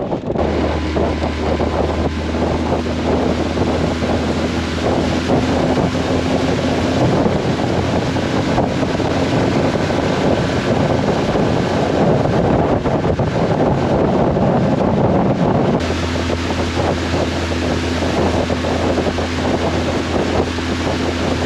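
Tohatsu 20 hp outboard motor pushing a 16-foot aluminum boat at planing speed, with heavy wind buffeting the microphone.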